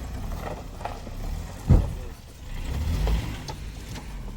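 Suzuki Jimny crawling over a rocky off-road track: a low drive rumble with scattered knocks and rattles as the car jolts, a heavy thump a little under two seconds in and another surge of rumble about a second later.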